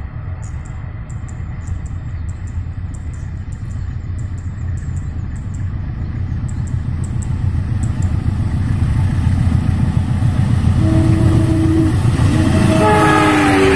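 CC 203 diesel-electric locomotive approaching with a passenger train: a low engine and rail rumble that grows steadily louder, with two horn blasts near the end, the second dropping slightly in pitch.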